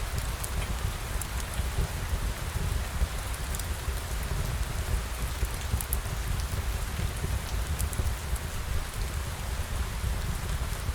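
Steady rain falling, a dense even hiss over a deep low rumble, with scattered sharp ticks of individual drops.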